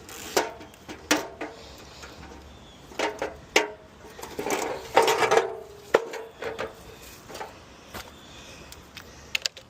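Irregular metallic knocks, clicks and rattles from car body parts being handled, with a busier burst of rattling about five seconds in that rings briefly.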